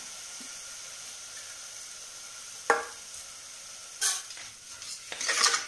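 Soaked rice and moong dal sizzling steadily in hot oil with sautéed onion, potato and tomato in an aluminium pressure cooker. A sharp click comes about halfway through, and a few knocks and scrapes come in the second half.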